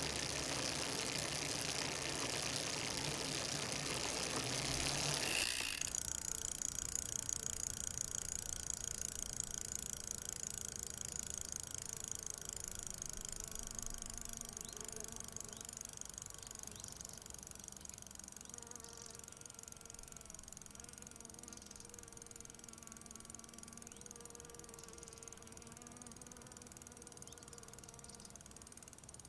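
A wash of rushing noise that cuts off about five seconds in, giving way to a buzzing hum of several steady, slightly wavering tones that slowly fades away.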